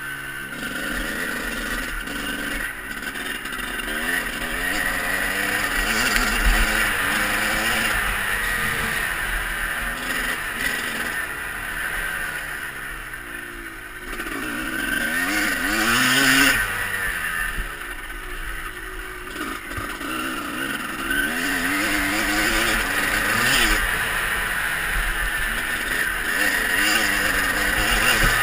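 Motocross bike engine revving up and down as it is ridden round the track, its pitch repeatedly rising and falling, over a steady rushing hiss.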